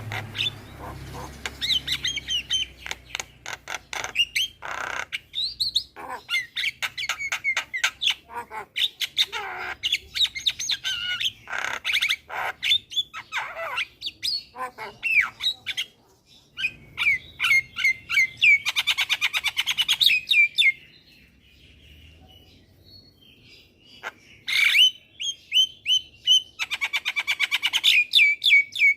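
Javan myna (jalak kebo) singing vigorously: a varied, fast stream of chattering notes, whistles and squawks, with rapid rattling trills twice in the second half and a short lull about two thirds through.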